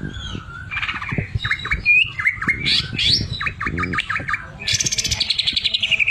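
Cucak ijo (green leafbird) singing a varied run of short chirps and whistled notes. About two-thirds of the way in, this breaks into a fast rattling trill that slides down in pitch for nearly two seconds. Faint low knocks are heard underneath.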